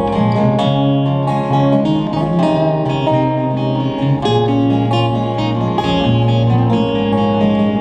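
Live band music without vocals: acoustic guitar strummed and plucked in a steady rhythm over low held notes.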